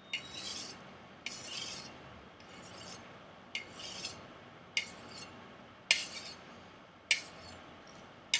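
Chinese chef knife's edge stroked across a strop loaded with black compound in freehand stropping passes: about eight short scraping strokes at a steady pace a little over a second apart, each starting with a light tick. The stropping polishes a freshly convexed edge.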